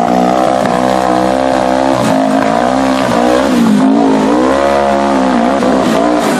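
Off-road vehicle engine running hard under changing throttle, its pitch falling and rising several times as it revs.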